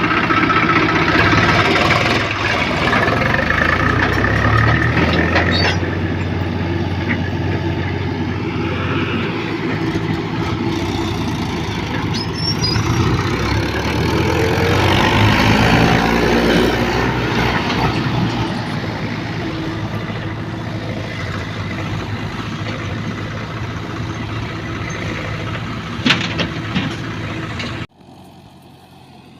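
JCB 3DX backhoe loader's diesel engine running while it digs and loads mud. The engine swells louder twice as it works under load, and the sound drops abruptly to a much quieter background near the end.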